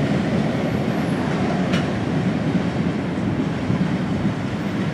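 Freight train's loaded gondola cars rolling away on the rails, a steady rumble of steel wheels on track that fades slightly as the train recedes.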